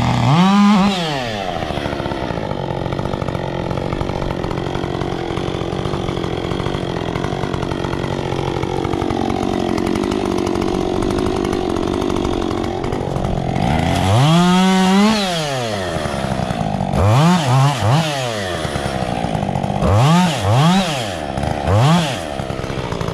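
Two-stroke chainsaw revved up and down over a steady engine hum: one rev at the start, a longer one about two-thirds through, then a quick run of short revs near the end.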